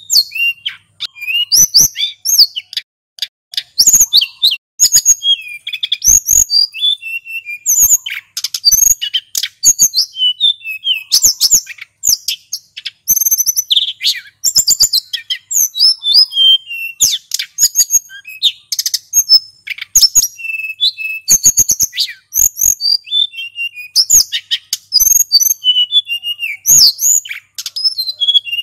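A male sulingan gunung singing a long, unbroken run of rapid, high whistles and chattering trills, with sharp clicking notes mixed in.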